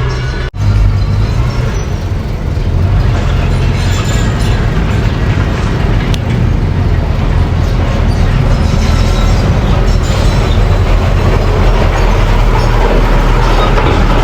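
Mini bulldozer's engine running steadily under load with its tracks clattering, broken by a brief cut-out about half a second in.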